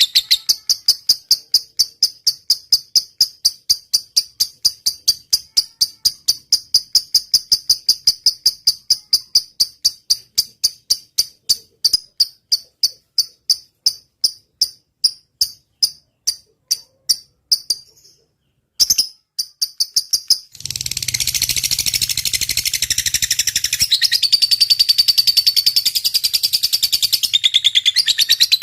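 Lovebird's 'ngetik' song: a long run of short, high, evenly repeated chirps, several a second, that stops at about 18 s. After a brief break a dense, continuous high chattering begins at about 21 s.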